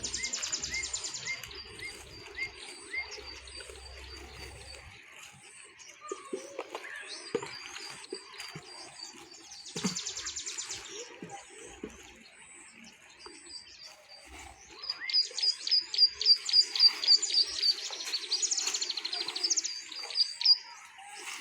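Birds chirping and singing: strings of quick, evenly repeated high notes, with a louder, faster run of notes in the last third.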